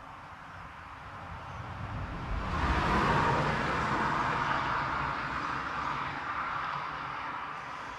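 A road vehicle passing on the highway: its tyre and engine noise swells to its loudest about three seconds in, with a low rumble, then slowly fades away.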